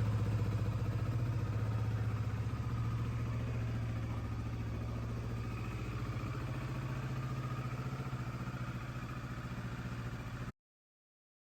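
Kawasaki Versys 650 parallel-twin engine idling steadily just after starting. It cuts off abruptly near the end.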